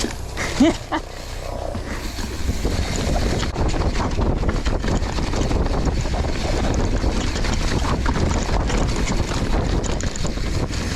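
Mountain bike riding down a dirt trail: steady rumble of knobby tyres and wind on the helmet-mounted microphone, with rattling and clicking from the bike over rough ground. A short rising squeal comes about half a second in.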